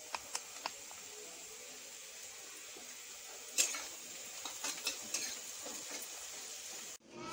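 Food sizzling in a steel wok on a gas burner while a spatula stirs it, with scattered clicks and scrapes of the spatula against the pan.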